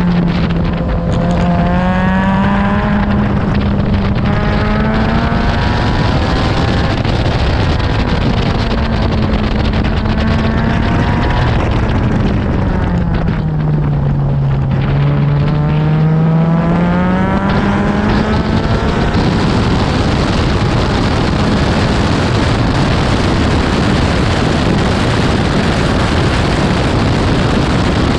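Honda K24 inline-four in an Exocet, driven hard around a track lap. The engine runs at high revs, drops in pitch about halfway through, then climbs back up. In the later part the engine note is harder to pick out under a broad rush of wind and road noise.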